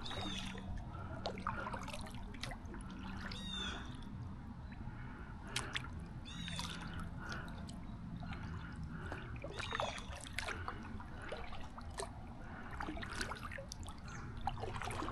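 Paddle strokes in the water from a small solo canoe: the blade dips and splashes repeatedly, and drips fall from it between strokes, with a few small knocks.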